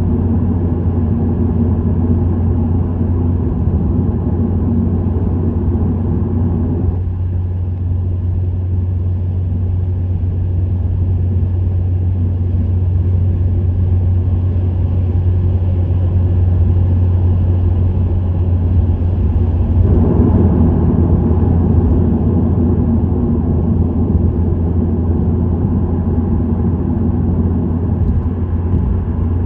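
Subaru WRX STI (VAB) turbocharged EJ20 boxer four with an STI Performance muffler, the car under way at a steady pace with a continuous low exhaust drone. The fuller part of the engine note drops away about seven seconds in and comes back about twenty seconds in, as throttle is eased and reapplied.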